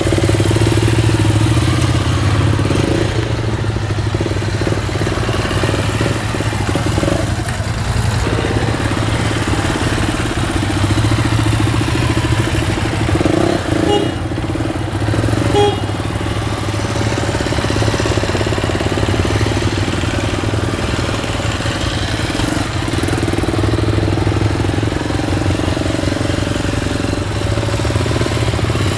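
Motorcycle engines running at low revs, rising and easing as the riders work the throttle and clutch through slow-speed manoeuvres. Two short clicks sound about midway.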